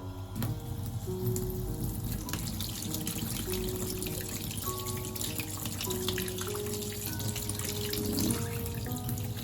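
Water running from a tap into a sink, a steady splashing hiss, over soft background music.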